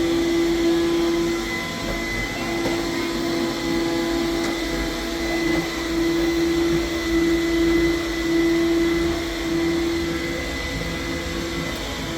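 Vacuum cleaner running steadily, its motor giving a constant hum over a rush of airflow.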